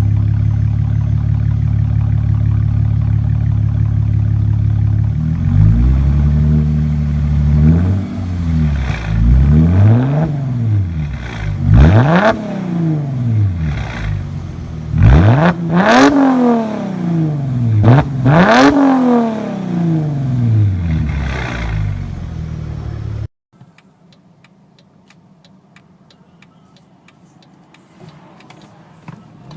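Mercedes-Benz V6 engine held at a steady speed, then revved in a series of quick blips, the pitch rising and falling with each one. About 23 seconds in it cuts off abruptly to a much quieter stretch with faint ticking.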